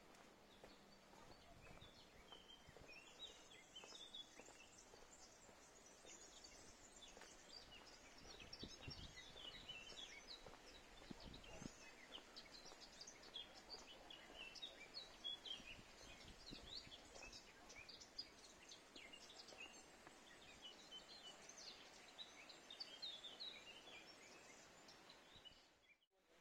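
Faint songbird chirps and trills from several birds in a garden, many short calls over a soft background hiss, fading out near the end.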